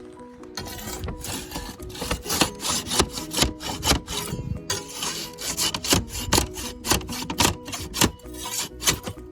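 Hand-tool strokes rubbing or scraping back and forth, about two a second, in an even rhythm. Light ukulele background music plays under them.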